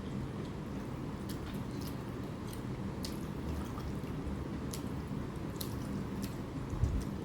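Close-up wet chewing and squishing mouth sounds of a person eating rice and curry, with scattered small clicks and a soft low thump near the end.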